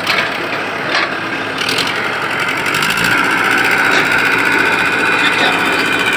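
Mahindra tractor's diesel engine running, with a few sharp knocks in the first couple of seconds. From about two seconds in it grows louder, with a steady whine over the engine noise.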